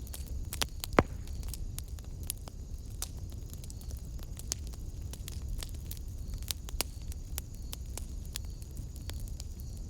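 Wood fire in a fireplace crackling, with irregular sharp pops over a low steady rumble; one louder pop about a second in.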